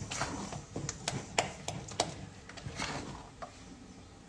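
A stirring utensil knocking and scraping against a saucepan as thickening custard is stirred: a run of sharp irregular taps that thin out after about three seconds.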